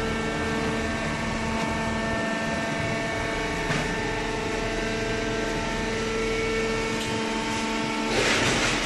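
Hydraulic cardboard baler running: a steady motor and pump hum, with a louder hiss for about a second near the end.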